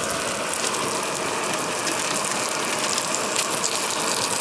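Burgers, mushrooms and onions frying on a small griddle over a camping stove: a steady sizzle with fine crackling.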